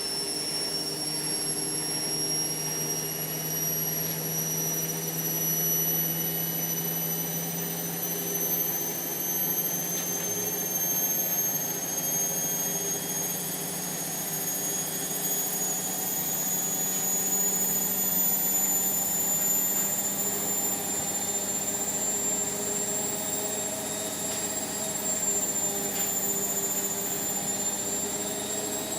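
Indesit washing machine spinning, its motor whine climbing slowly and steadily in pitch as the drum gathers speed, over a lower hum.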